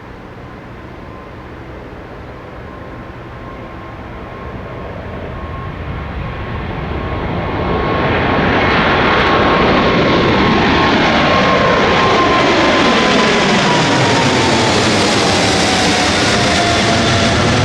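Boeing 777F freighter's GE90 jet engines at take-off power. The sound grows louder over several seconds as the aircraft approaches, then holds loud as it passes, with a high engine whine that drops in pitch.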